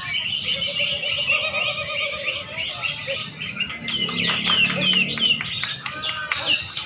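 Many caged songbirds singing at once in a dense chorus of overlapping chirps and trills, with a run of quick falling chirps about two-thirds of the way through.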